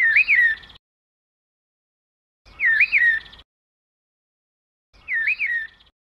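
A bird's short whistled call, two quick notes that dip and rise in pitch, given three times about two and a half seconds apart and identical each time.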